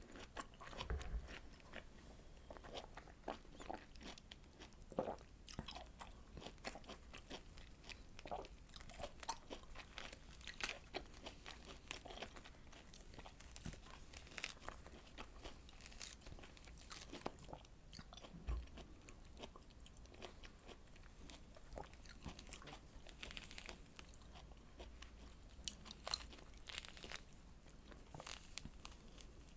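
Biting and chewing of citrus fruit segments (orange, mandarin or hallabong): an irregular stream of soft crunches and wet clicks.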